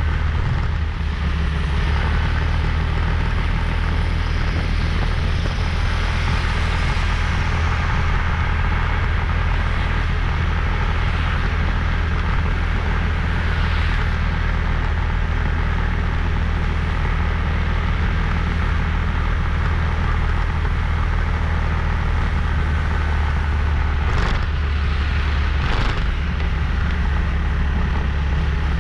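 Motorbike engine running steadily while riding, with wind and road noise over it. Two short sharp sounds about a second and a half apart near the end.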